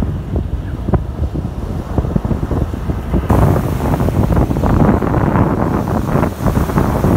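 Sea surf washing ashore in strong wind, the wind rumbling on the microphone. The surf and wind grow louder a little over three seconds in.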